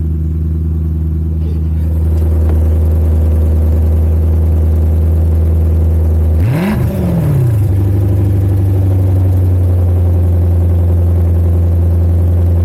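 Lexus GS430's 4.3-litre V8 idling with its exhaust cutouts open, so the exhaust exits ahead of the mufflers and is loud. About six and a half seconds in it is blipped once, rising and falling in pitch, then settles back to a slightly faster idle.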